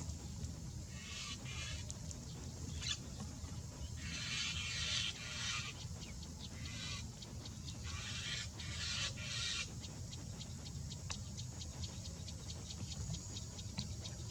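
Bird calls in repeated high bursts, each up to about a second long, giving way about ten seconds in to a run of short sharp clicks, over a steady low rumble.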